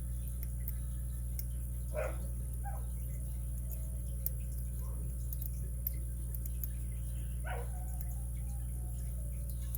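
A dog whining, with a short yelp about two seconds in and another near the end that trails off into a long, slowly falling whine. Faint light clicks of lock picks working in a padlock sound over a steady low hum.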